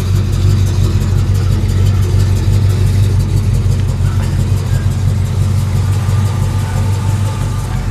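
Chevy S10 pickup's engine idling steadily close by, with a strong low hum and no revving.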